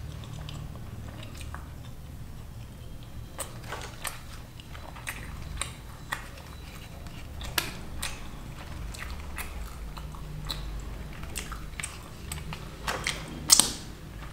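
Close-miked chewing and wet mouth sounds of paneer curry and lachha paratha being eaten by hand, with scattered sharp clicks. A louder crackle comes near the end as the flaky paratha is torn.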